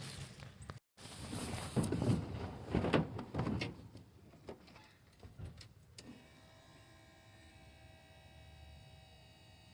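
1982 Chevrolet square-body pickup's engine cold-starting: loud, uneven noise for the first few seconds as it cranks and catches, then from about six seconds in a faint, steady idle on the choke.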